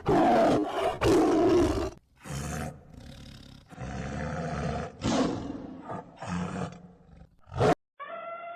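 Tiger roaring and growling in a string of rough calls of varying length. Near the end a long call at one steady pitch begins.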